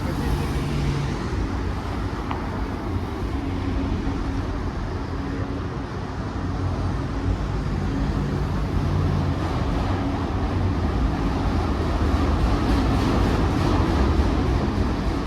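Long freight train rolling slowly past, a steady low rumble of wheels on rails, mixed with road traffic.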